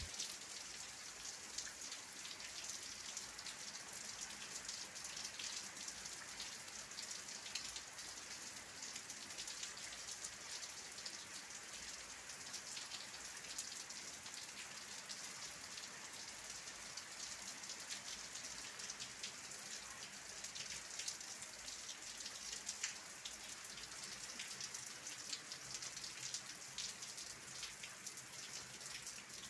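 Steady rain falling: an even, fairly faint hiss dotted with many small drop taps.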